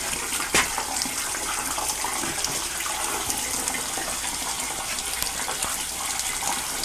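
Water running and splashing steadily out of a steam boiler during a wash-out, with one sharp tick about half a second in.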